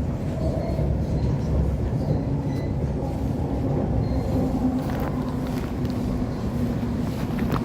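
Steady low rumble of an Elizabeth line Class 345 electrical multiple unit in motion, heard from inside the carriage, with a faint hum partway through.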